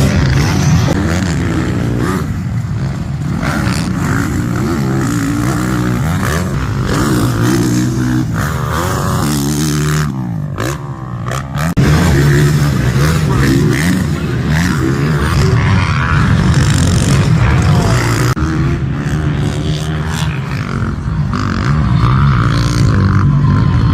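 Motocross bikes' engines revving hard and shifting as riders pass on the track, pitch climbing and dropping repeatedly, with a short lull about ten seconds in.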